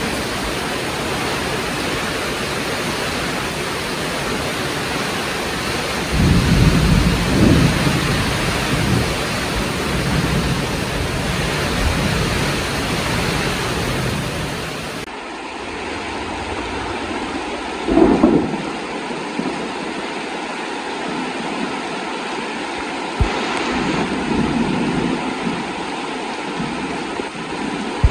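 Heavy rain falling in a steady hiss, with thunder rumbling low in the background: a long rumble from about six seconds in and another later on, and a short, louder clap a little past the middle. About halfway through, the hiss turns suddenly thinner.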